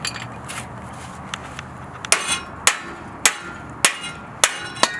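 Metal-on-metal hammer strikes on a steel exhaust pipe: about six sharp, ringing blows roughly half a second apart, starting about two seconds in, knocking loose an adapter pipe crushed onto the exhaust by a tight clamp.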